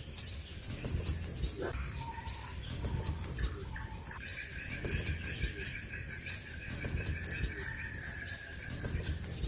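Crimson sunbird calling: a fast, continuous series of high, thin chips, several a second. A long, steady, lower whistle-like tone runs underneath from about four seconds until near the end.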